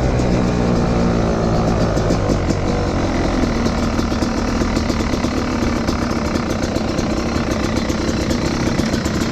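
Motocross bike engine running at idle, its speed falling over the first couple of seconds and then holding steady.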